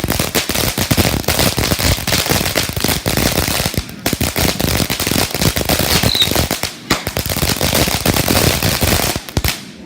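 Firecrackers going off in a long, dense run of rapid sharp pops, with two brief lulls, then stopping suddenly just before the end.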